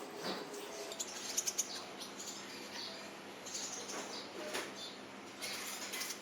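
Small birds chirping now and then, with a few sharp clicks a little over a second in.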